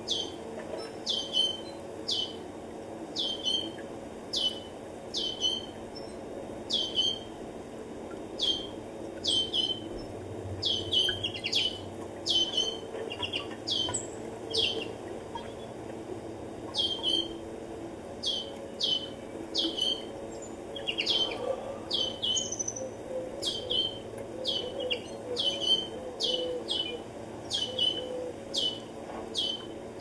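A small songbird repeating a sharp, high, down-slurred chirp over and over, a little faster than once a second, with an occasional second bird's note mixed in.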